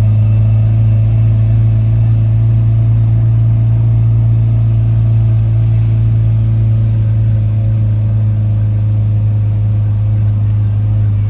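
Vehicle engine running steadily under heavy load in first gear, heard from inside the cab, as it climbs a steep hill; a steady low hum with no rise or fall in pitch. The engine is working hard enough that its temperature is creeping up.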